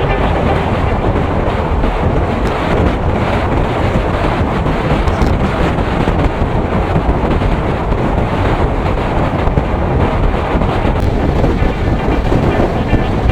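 Strong wind buffeting the microphone: a loud, steady rushing noise, heaviest at the low end, with no clear engine tone standing out.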